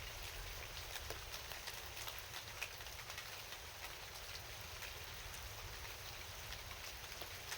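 Steady rain falling, with many individual drops ticking sharply against a surface, over a low steady rumble.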